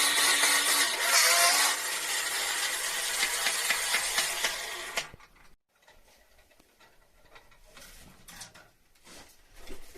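Power saw cutting, a steady high noise with a motor whine, stopping suddenly about five seconds in; after that only faint clicks and handling noises.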